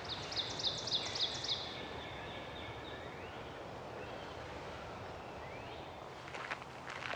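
A small songbird singing: a quick run of about eight high, downward-sliding notes in the first second and a half, then fainter, lower whistled notes.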